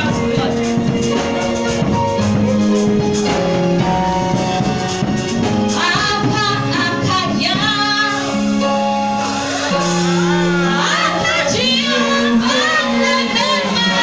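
Gospel song with a female vocal line over steady backing instruments; the singing wavers with vibrato in the second half.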